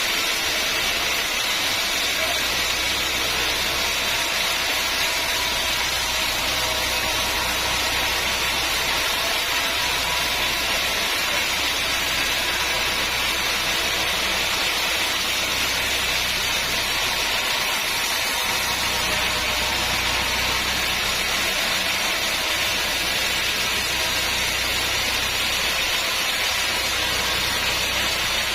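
Sawmill machinery running steadily: a constant, unbroken mechanical noise with a low hum underneath.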